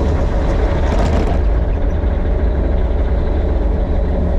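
Yanmar mini excavator's diesel engine running steadily at working revs, with a short rasping noise in the first second and a half.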